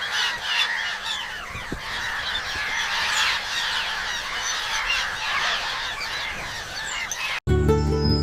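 A flock of birds calling over one another: a dense, continuous chatter of short squawks and honks, cut off abruptly near the end.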